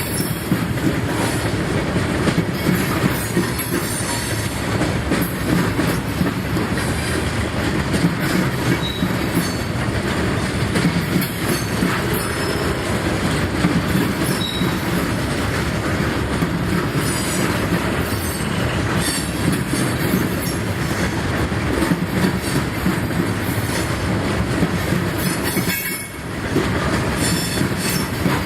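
Freight cars of a Norfolk Southern ballast train rolling steadily past, wheels clacking over the rail joints with intermittent wheel squeal; the sound dips briefly near the end.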